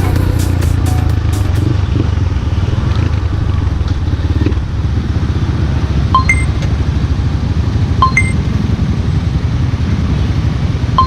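Yamaha Scorpio Z's single-cylinder four-stroke engine running steadily. A short two-note electronic beep sounds three times in the second half, about two seconds apart.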